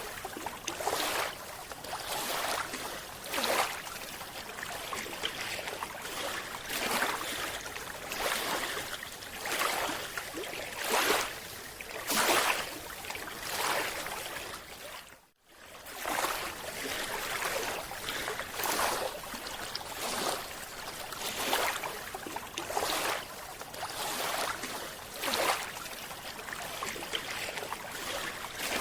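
Underwater sound of a scuba diver breathing through a regulator, with rushing surges of exhaled bubbles every second or two. A brief gap about halfway through.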